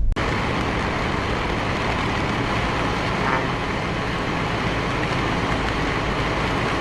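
Steady road and wind noise of a moving vehicle, an even rush with no distinct events.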